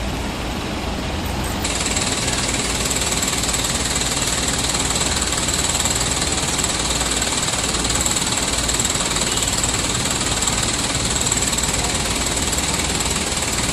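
Heavy rain coming down, a loud, steady hiss and patter of water that gets brighter about two seconds in.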